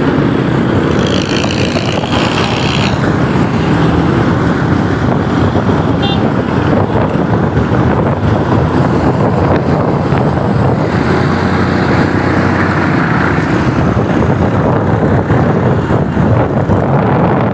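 Motorcycle on the move on the road, a steady, dense rush of engine and road noise.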